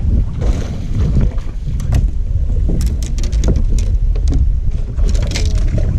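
Fishing boat on the water: a steady low rumble of water and wind, a quick run of sharp clicks and knocks in the middle, and a brief splash-like hiss near the end.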